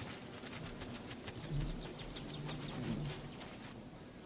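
Outdoor spring bird ambience: small birds chirping rapidly while a pigeon coos low twice in the middle.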